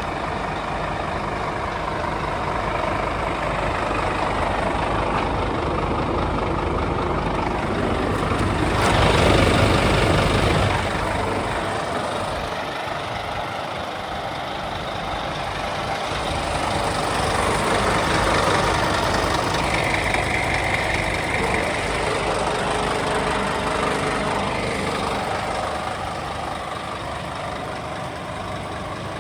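Scania P280 truck's diesel engine idling steadily, with a louder rush of noise about nine to eleven seconds in and a brief high tone around twenty seconds in.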